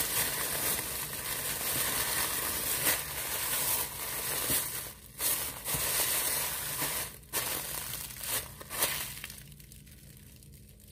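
Clear plastic bag crinkling as hands press it flat and roll it up to squeeze the air out around roasted seaweed sheets. The crinkling is continuous, with a few sharper crackles, and dies down near the end.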